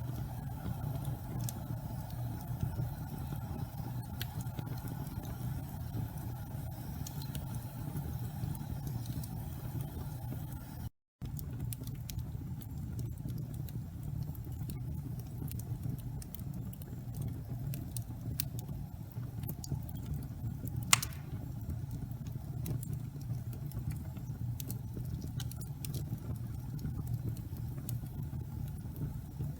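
A wood fire burning slowly in a fireplace: a steady low rumble of the flames with scattered small crackles and one louder pop about two-thirds through. The sound drops out briefly a little over a third in.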